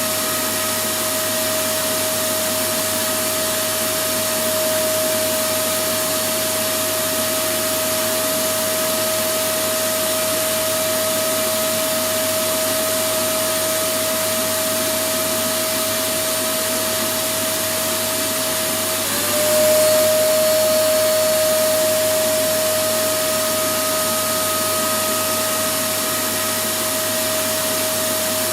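Electric vacuum cleaner running steadily: a constant rush of air with a high motor whine. About nineteen seconds in, the whine dips briefly and the sound grows a little louder for a few seconds before settling.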